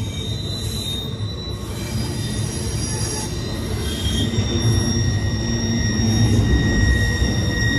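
Double-stack intermodal freight cars rolling past at close range: a heavy rumble under thin, steady, high-pitched wheel squeal, growing louder toward the end.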